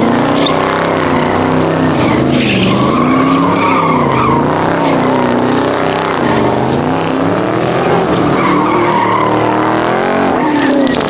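A car's engine revving hard at the car meet, its pitch rising and falling over and over, with tyres squealing as the car spins its wheels in the pit.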